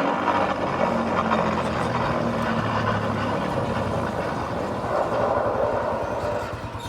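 A vehicle engine running steadily over a rushing background noise. Its low, even note fades out about three and a half seconds in.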